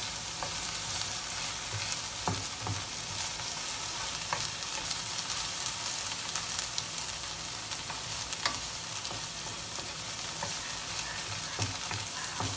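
Chopped onion and tomato sizzling in a little oil in a nonstick frying pan, stirred with a wooden spatula that scrapes and taps against the pan now and then; the aromatics are being sautéed until they turn brown.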